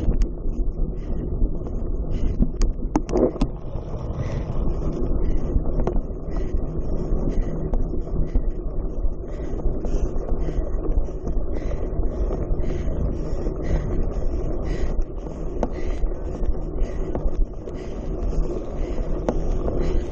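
Steady low rumble of wind buffeting the microphone, with a few sharp clicks.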